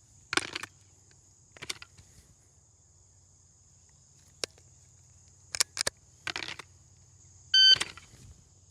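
Shot timer start beep near the end, followed right at the very end by the first pistol shot. Before that come scattered clicks and rustles of gear handling, over a steady high insect buzz.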